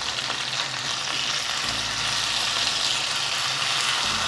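Marinated chicken pieces sizzling steadily as they shallow-fry in hot oil in an uncovered pan.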